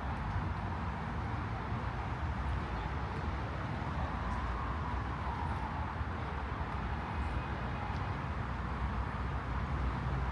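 Steady low rumble of distant city traffic, with no single event standing out.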